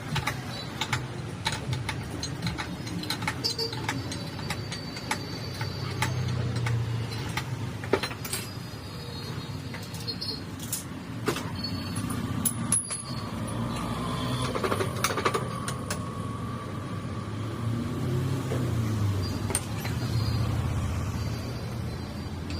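Scattered sharp metal clinks and knocks, typical of hand tools at work on a motorcycle part, over a steady rumble of passing road traffic.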